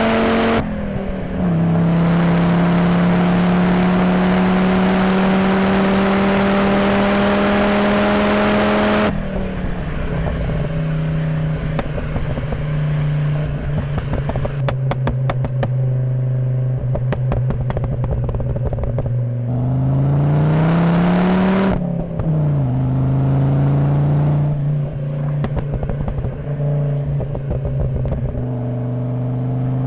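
Volvo 850 T5's turbocharged 2.3-litre inline-five (B5234T3) through a Magnaflow exhaust: a short break for a gearshift near the start, then accelerating with the pitch slowly climbing. About nine seconds in it lifts off and runs lightly, the exhaust crackling and popping on the overrun. Around twenty seconds the revs rise briefly and drop back to a lower, steady cruise.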